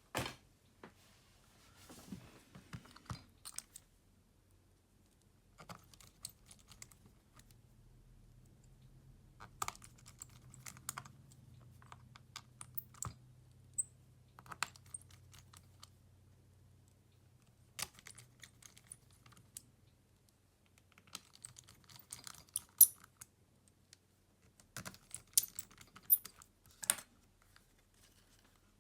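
Scattered small clicks and taps of hand tools and plastic and metal smartphone parts being handled on a workbench, in irregular clusters, with a faint low hum through the middle.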